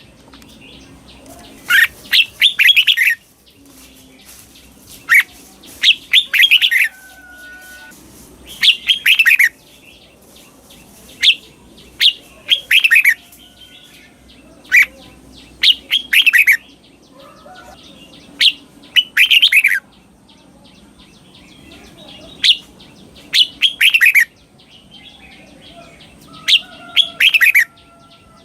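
Red-whiskered bulbul singing its repeated 'double' song: short, bright phrases of quick warbled notes, one every two to four seconds, with quiet gaps between them.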